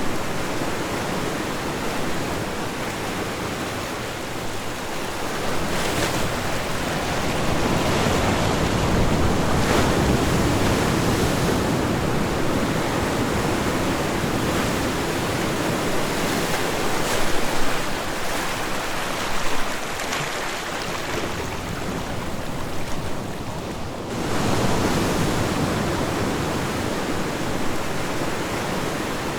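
Ocean waves breaking and washing on a shore, a steady rush of surf that swells and eases in slow surges.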